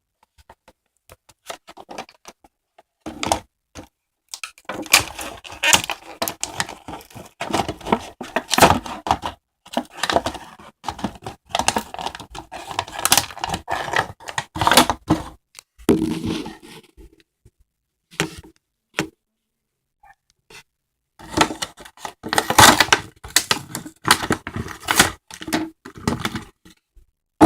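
A toy monster truck's packaging being torn and pried open by hand: irregular spurts of tearing, cracking and scraping with thunks, broken by short pauses.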